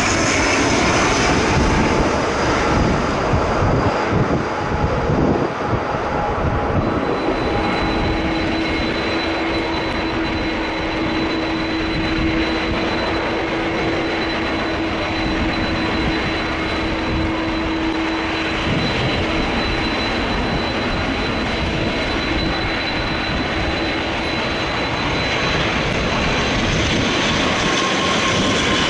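Turboprop airliner engines running loudly, a dense roar with a steady high whine. Slightly falling tones in the first few seconds give way to a steady whine and a lower hum that sets in about seven seconds in.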